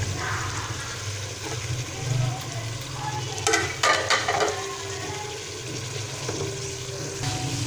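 Chicken, chopped tomatoes and green chillies sizzling in oil in a pan while a metal spoon stirs them, with a few sharp spoon scrapes against the pan about three and a half to four seconds in. A low steady hum runs underneath.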